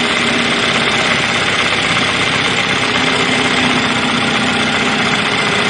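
2013 Chevy Malibu's 2.5 L four-cylinder engine idling steadily. It runs only with a jumper cable added from the battery's negative post to the engine block, the sign of a bad engine ground circuit.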